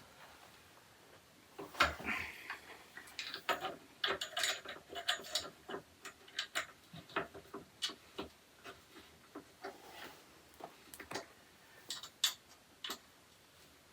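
Irregular clicks and light knocks of shoe rack parts being handled and fitted together, starting about a second and a half in.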